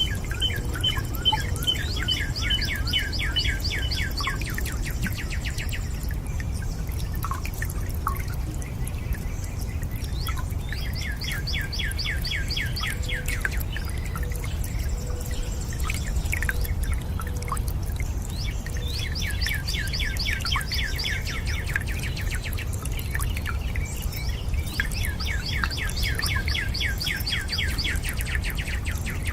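A songbird sings a fast trill of rapidly repeated notes four times, each phrase about three seconds long, over a steady low rush of water with a few scattered drips.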